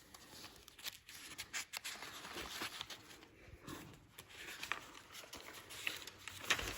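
Faint rustling and scattered light clicks of photo album pages being handled and turned.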